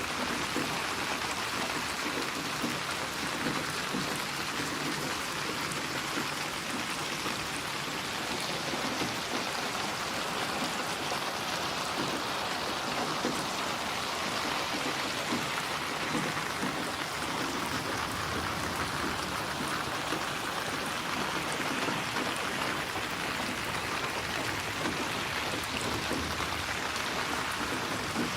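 Steady rain falling on a surface, a continuous dense patter of drops with no thunder.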